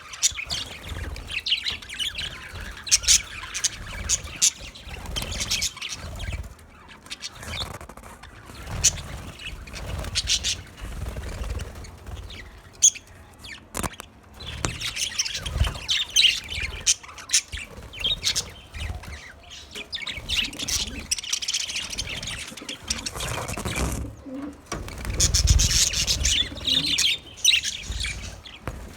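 Budgerigar chirping in fast, high chatter that comes in bouts with short quieter gaps, over an intermittent low rumble.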